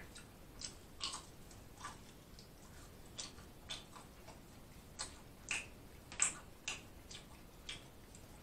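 Close-up chewing and lip-smacking of a person eating: short wet mouth clicks at uneven spacing, about one or two a second.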